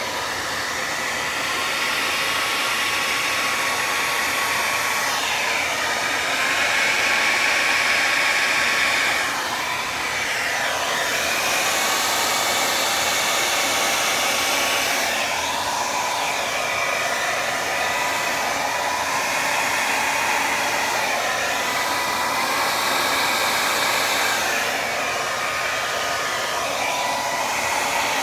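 Hair dryer running continuously while blowing wet pour paint across a canvas. Its whine dips in pitch several times.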